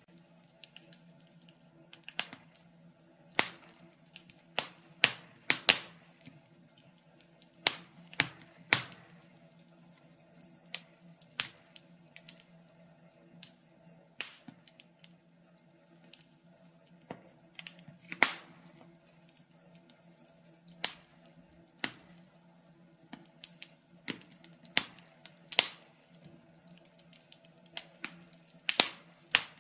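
Wood fire crackling in a fireplace: irregular sharp pops and snaps, some loud and some faint, a few every couple of seconds, over a faint steady low hum.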